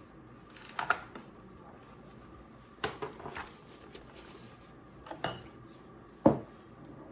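Scattered knocks and clinks of kitchen dishes and pans, about five separate hits over several seconds with the loudest near the end.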